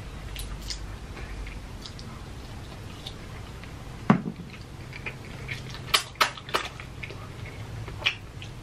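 Close-miked eating: chewing fried chicken, with scattered sharp clicks, the clearest about four, six and eight seconds in.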